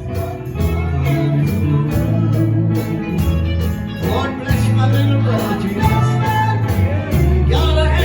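Live gospel music from a church band: a bass line, a steady drum beat and singing.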